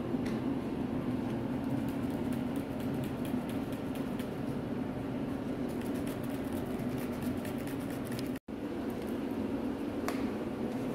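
Carpet-washing machinery running steadily with a low hum, with a brief dropout about eight seconds in.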